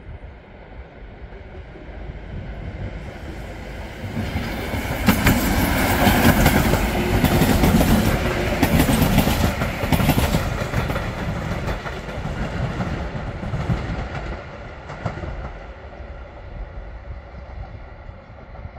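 Electric multiple unit passenger train approaching and passing close by, its wheels clattering over the rail joints. It builds up, is loudest about five to ten seconds in, then fades as it runs away.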